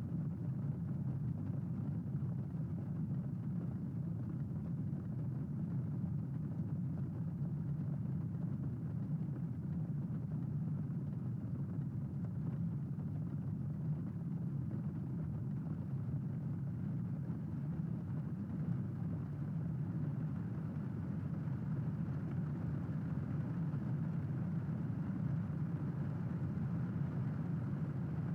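Steady, dull rain noise with its weight low in pitch, even throughout, with no thunderclaps.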